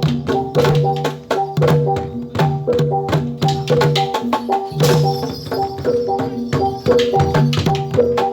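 Javanese gamelan playing jathilan dance accompaniment: quick hand-drum strokes over a repeating pattern of ringing metallophone notes, with a cymbal-like crash about five seconds in.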